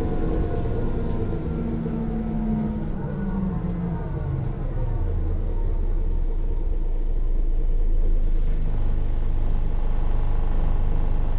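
A Mercedes-Benz O 405 N1 city bus, heard from inside, with its loud six-cylinder diesel engine and a whine from the rear axle drive. The pitch falls over the first few seconds as the bus slows, then the sound swells and climbs again as it pulls away.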